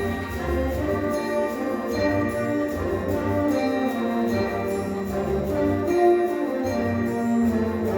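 High school concert band playing, with brass holding chords that change every second or so over sustained low bass notes.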